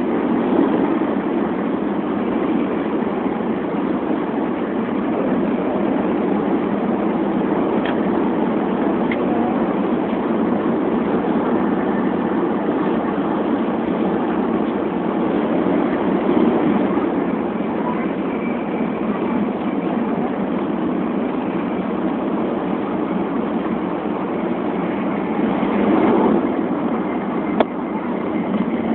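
Steady running noise of a Tokaido Shinkansen bullet train at speed, heard from inside the passenger cabin, swelling slightly now and then, with one sharp click near the end.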